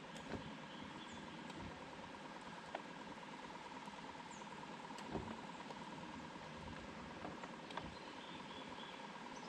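Faint steady hum with a few light knocks, and brief faint high bird chirps now and then.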